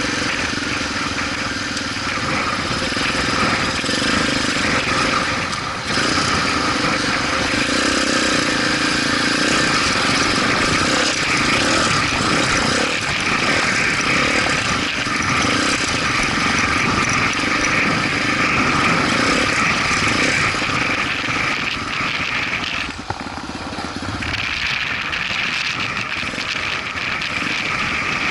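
Motorcycle engine running steadily while riding, with a short dip in level a few seconds before the end.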